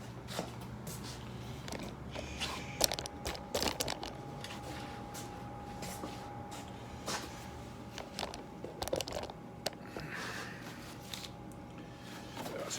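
Scattered clicks, knocks and scrapes of parts being handled and worked loose on an old motorcycle, with a couple of sharper knocks a few seconds in. A faint steady tone sits in the background through most of it.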